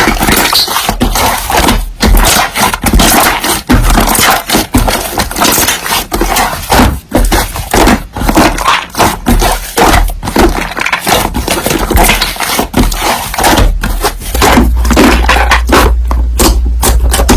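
Slime being pressed, squished and stretched by hand: a fast, irregular run of wet clicks, pops and crackles, several a second.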